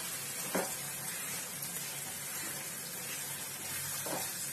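Onion-and-capsicum masala sizzling with a steady hiss in a nonstick kadhai as it is stirred with a wooden spatula. The spatula knocks against the pan about half a second in and again near the end. The oil has separated at the sides, the sign that the masala is fully fried.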